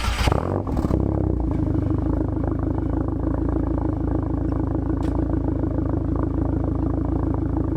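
Turbocharged car engine starting and settling into a steady idle about a second and a half in. No exhaust leak is heard: a backed-out turbo bolt has just been retightened.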